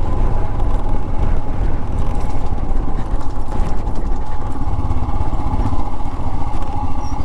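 Royal Enfield Himalayan 411's single-cylinder engine running steadily under way, with an even, fast low pulsing.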